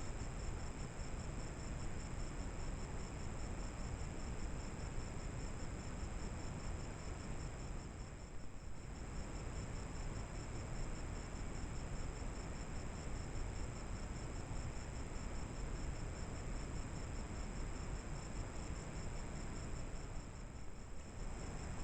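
Steady high insect chorus, a continuous cricket-like trill, over a trail camera's low microphone hiss. It dips briefly twice, about a third of the way in and near the end.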